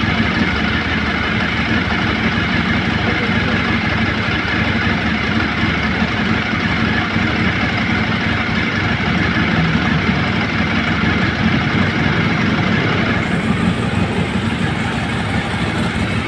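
Ducati 848 Evo's L-twin engine idling steadily after a cold start.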